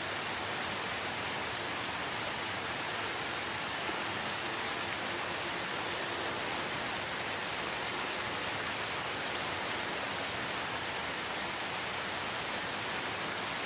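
Steady, even rain falling, a dense hiss of drops with no let-up.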